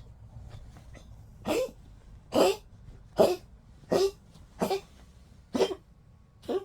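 A 15-year-old poodle coughing, seven short coughs less than a second apart starting about a second and a half in: an old dog's recurring cough.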